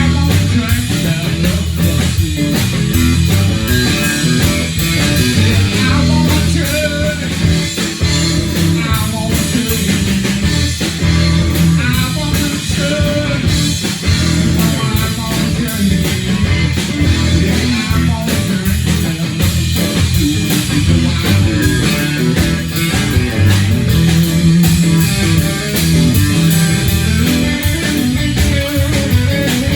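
Live rock band playing: guitar over bass notes and drums.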